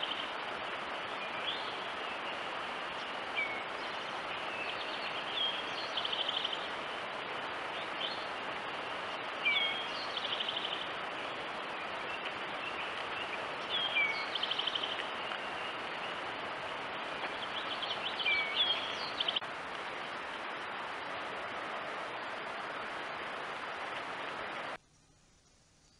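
A bird calling every few seconds over a steady hiss, each call a quick high trilled run with a short lower down-slurred note. About a second before the end the sound drops to near silence.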